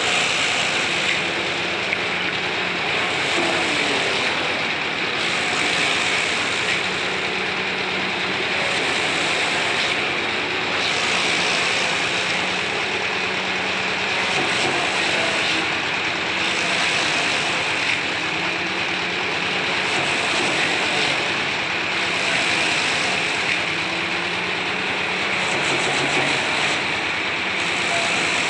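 Wood-shavings machine for chicken-coop bedding running steadily, a loud, even whirring hiss with no let-up.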